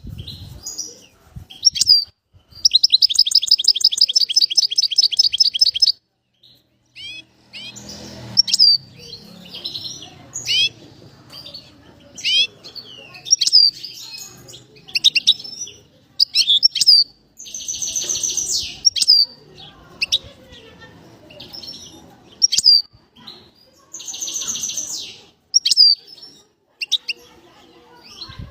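A songbird singing: short, sharp, high whistled notes slurring up and down, repeated about once a second. A long rapid trill comes a few seconds in, and shorter buzzy trills come about two-thirds of the way through and again near the end.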